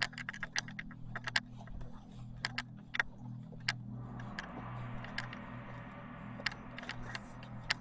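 Footsteps walking on gravel, heard as irregular crunching clicks over a low steady hum. About four seconds in, a buzzing electronic tone joins them.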